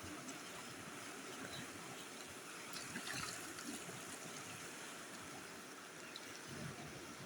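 Faint, steady trickle and patter of water, a little louder about three seconds in.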